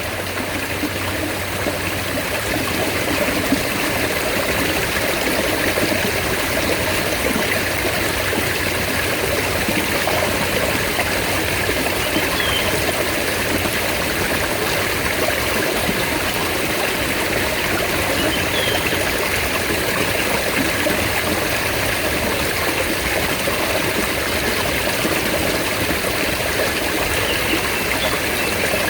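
Mountain stream flowing: a steady, even rush of running water. A few faint short high chirps sound over it, about three times.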